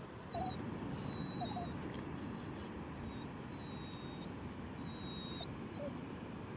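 Steady rush of beach surf and breeze, with a few faint, short whimpers from a small, excited dog.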